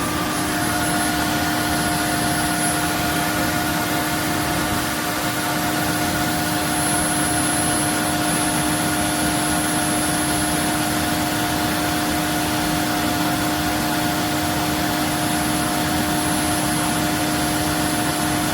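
Roborock F25 wet-dry vacuum's motor running with a steady whine, winding down with a falling pitch at the very end.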